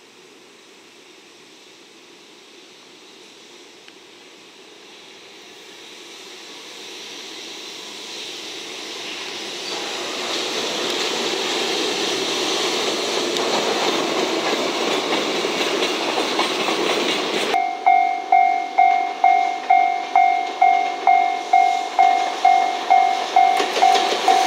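JR Freight EF210 electric locomotive hauling a train of rail-carrying flatcars, approaching and passing, its motor and wheel noise building steadily over the first two-thirds. Then, about two-thirds in, the sound changes abruptly and a level-crossing warning bell rings at a little over two strikes a second over the passing train.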